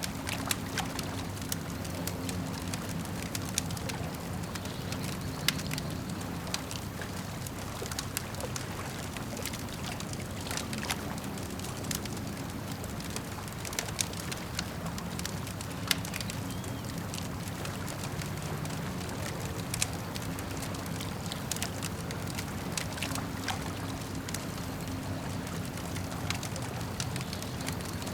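Campfire crackling, with irregular sharp pops and snaps, over a steady low wash of lake water.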